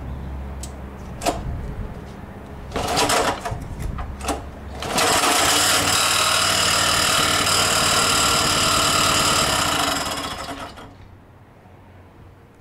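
Speedex garden tractor's small engine running: a low rumble and a few sharp clanks, then about five seconds of loud, rapid, even clattering that dies away near the end. The owner puts the noise down to the valves, which he had been checking, and calls it not good.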